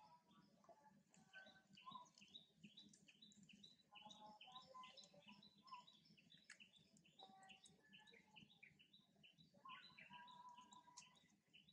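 Faint bird chirping: a short call repeated about three times a second, with scattered lower whistled notes from other birds.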